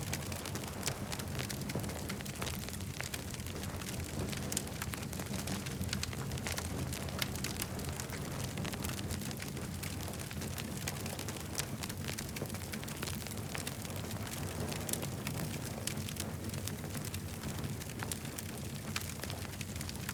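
Campfire crackling, with many quick sharp pops and snaps over a steady low rumble.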